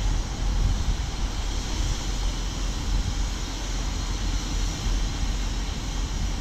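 Wind buffeting the microphone: a steady, loud rushing with a deep, fluttering rumble.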